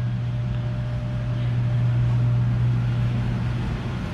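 Steady low mechanical drone of running machinery, holding an even pitch throughout.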